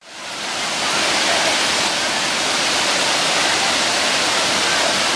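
Rushing water, as from a waterfall or fast stream: a steady, even rush that fades in over the first half second.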